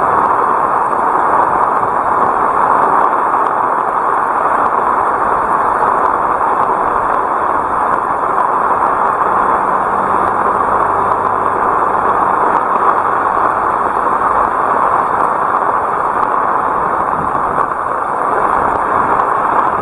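Heavy rain pouring down steadily, a dense, even hiss without letup.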